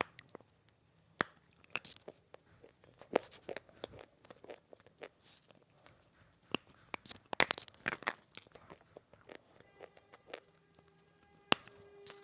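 Close-up crunching and chewing of dry lumps of multani mitti (Fuller's earth clay): irregular sharp crunches, with a busy cluster about seven to eight seconds in.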